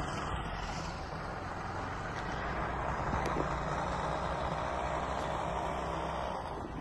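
Steady running noise of a vehicle driving along a paved road, heard from on board: engine and tyre noise.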